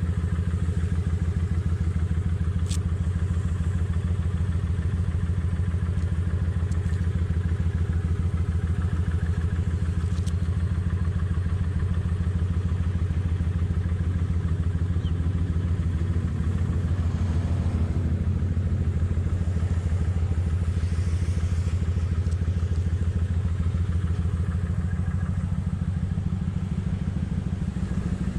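Kawasaki Vulcan 900's V-twin engine running steadily, its even drone holding one pitch throughout.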